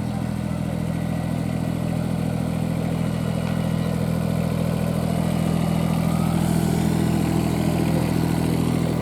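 Miniature railway diesel locomotive's engine running steadily, growing a little louder through the middle as it draws closer.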